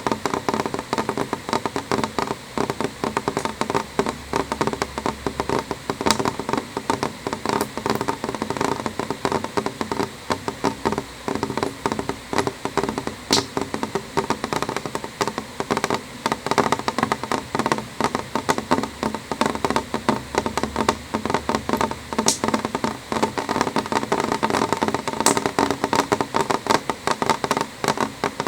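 Rain on window glass: a dense, irregular stream of drops ticking against the pane, with a few sharper single ticks standing out.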